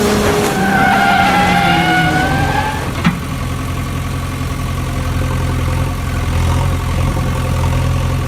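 A vehicle engine running with a steady low hum. Two slowly falling tones sound over the first few seconds, and a single sharp click comes about three seconds in.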